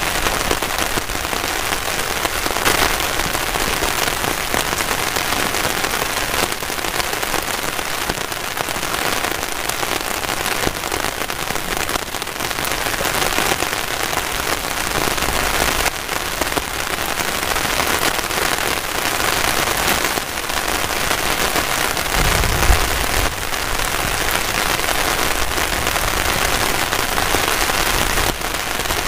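Heavy rain falling steadily on a tarp shelter, a dense, even hiss of drops. About three-quarters of the way through there is one brief low thump.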